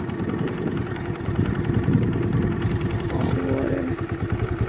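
A vehicle engine running steadily with a low, even pulsing.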